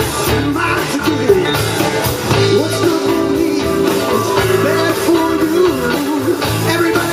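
Live blues band playing: a repeating bass line and a full band under a bending, wavering lead melody line.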